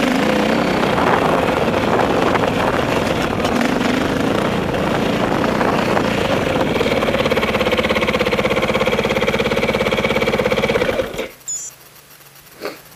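Dirt bike engine running, uneven with throttle changes at first, then settling into a steady even beat. It cuts off suddenly about eleven seconds in, and a couple of short knocks follow.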